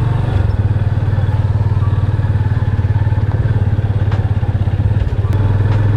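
Motorcycle engine running steadily on the move, with a brief dip in the engine note about five seconds in.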